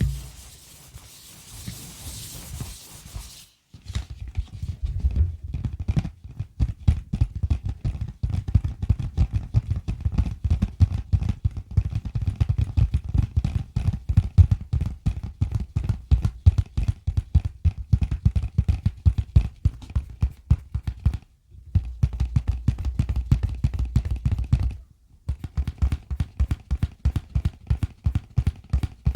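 A steady rustling hiss for about three seconds, then fast, close-up ASMR tapping: many quick taps a second, each with a soft low thud, pausing briefly twice near the end.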